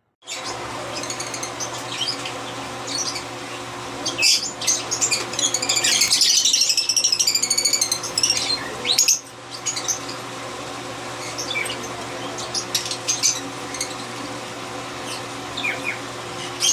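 Caged parrots chattering and squawking in quick high calls, busiest from about four to eight seconds in, over a steady mechanical hum.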